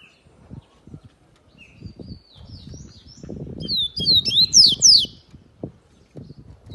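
Yellow-bellied seedeater (coleiro-baiano) singing: a few soft high notes, then a loud burst of rapid sweeping whistles a few seconds in. Low rustling runs underneath.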